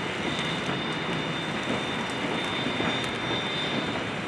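Steam-hauled passenger train rolling past, a steady rushing noise of the train on the rails with a thin high whine running through it.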